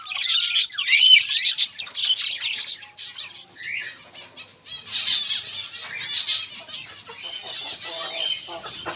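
Many small caged birds chirping and squawking over one another, in dense high-pitched calls that are loudest in the first few seconds. A lower, harsher call comes in near the end.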